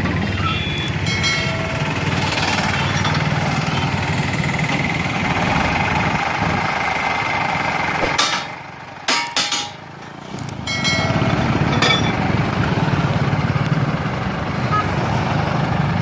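Hindustan tractor's diesel engine running steadily, falling away for about two seconds just past halfway and then picking up again.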